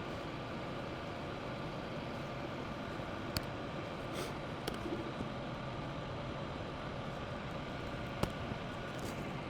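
A steady mechanical hum with faint steady tones in it, and a few short sharp clicks.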